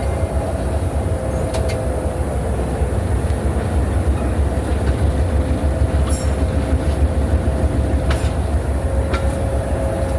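Passenger train rolling along the track, a steady low rumble with a constant hum over it and a few sharp clicks from the rails and couplings.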